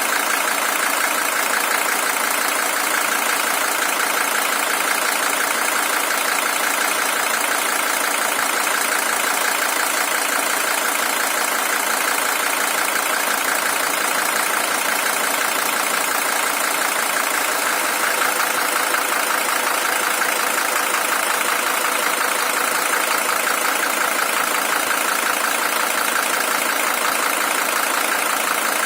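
Mercedes-Benz OM617 five-cylinder diesel engine in a W123 300TD idling steadily and evenly. It is the original engine, with 620,000 km on it.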